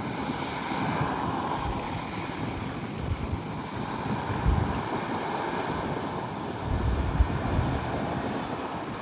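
Wind buffeting the microphone in gusts, over a steady wash of waves and the drone of boat engines out on the inlet.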